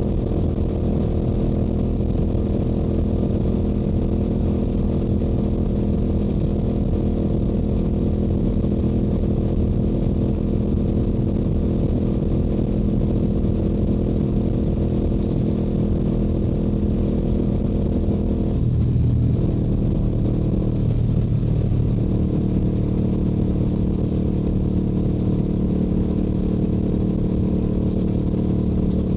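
Stock Yamaha R7's 689 cc parallel-twin engine and exhaust running steadily at highway cruising speed. About two-thirds of the way through the note dips and wavers for a few seconds, a change of throttle, then steadies again.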